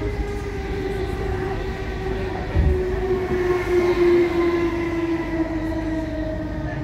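Electric commuter train heard from inside the carriage: a steady running rumble with a whine that sinks slowly in pitch, and a low thump about two and a half seconds in.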